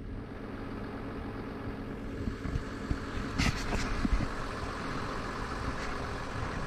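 Webasto diesel-fired coolant preheater running on a John Deere 1010E forwarder, a steady mechanical hum while it warms the engine before a cold start. A few short knocks come about halfway through.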